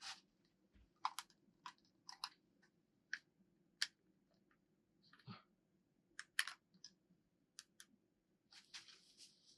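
Irregular sharp clicks and ticks, about ten of them, over a faint steady low hum.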